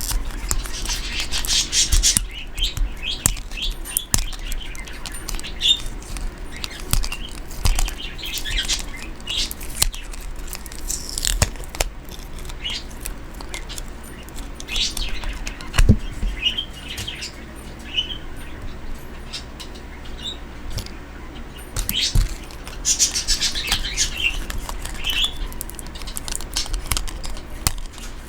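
Pet bird chirping and calling in repeated bursts of short, high chirps, mixed with small clicks and taps from craft items being handled.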